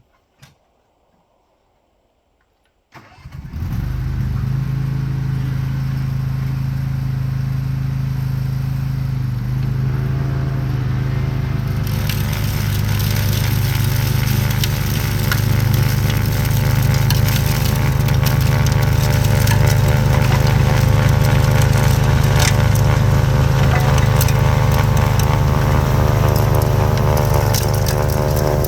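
Craftsman YT4000 lawn tractor engine starting after a brief crank about three seconds in, then running steadily. About ten to twelve seconds in the sound grows fuller and louder with a hiss added on top.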